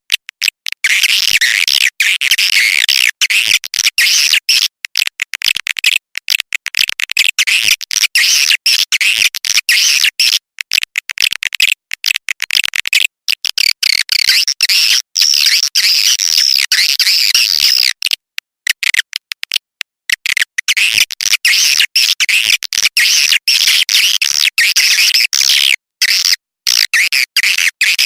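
Swiftlets twittering: a dense, rapid, high-pitched chatter broken by many very short gaps, with brief pauses about halfway. It is a recorded lure call played to attract swiftlets to a nest house.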